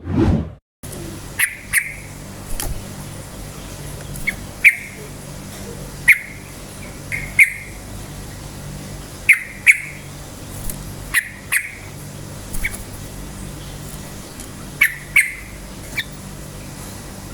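Yellow-vented bulbul (trucukan) giving short, sharp calls, often in quick pairs, every second or two, over a steady low hum. A brief whoosh sounds right at the start.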